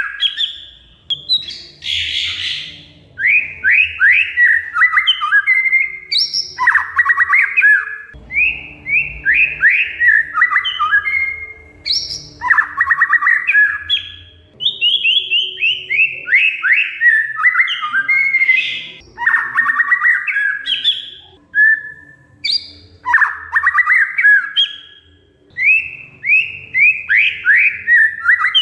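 Oriental magpie-robin (kacer) singing loudly, one phrase after another every couple of seconds, each a quick run of trilled, downward-sweeping whistled notes.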